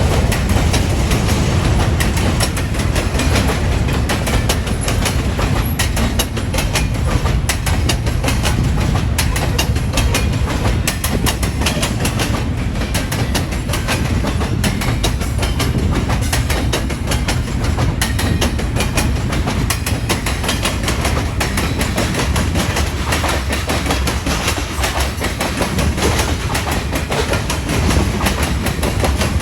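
A long train rolling past close by: a steady low rumble with rapid clicking of wheels over rail joints.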